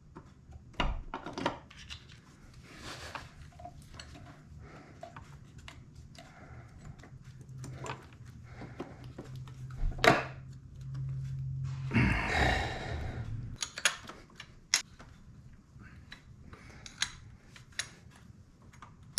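Metal engine parts and hand tools clinking, clicking and knocking as the cylinder head is fitted to a two-stroke motorcycle engine, with a brief rushing noise about twelve seconds in over a faint steady low hum.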